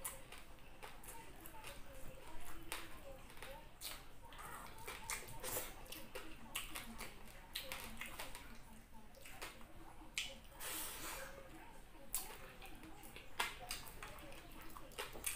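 Close-up eating sounds of fried tilapia and fried rice eaten by hand: chewing with frequent wet lip smacks and mouth clicks, and a longer noisy sound about two-thirds of the way through.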